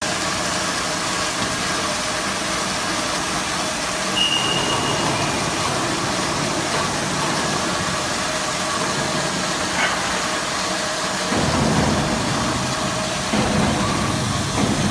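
Industrial band sawing machine running with a steady mechanical noise, a brief high whine about four seconds in, and a heavier low rumble from about eleven to thirteen seconds in.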